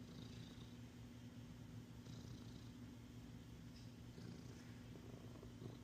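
Domestic cat purring softly and steadily while being petted.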